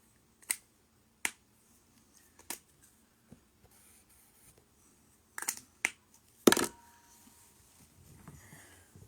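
A handful of scattered sharp clicks and taps, irregularly spaced, the loudest about six and a half seconds in.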